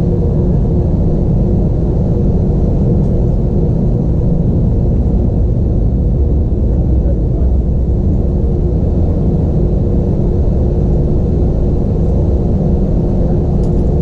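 Airbus A320-232 cabin noise from inside, near a window: a steady low rumble of the running engines, with a faint steady hum over it.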